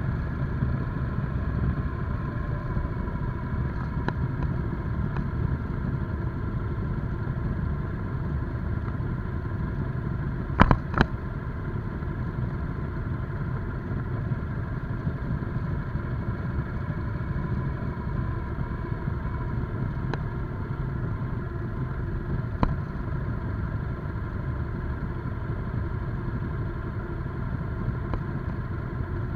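Motorcycle engine running at a steady cruise during a ride, its pitch drifting gently with throttle. Two sharp knocks come about ten and a half seconds in, and another a little after twenty-two seconds.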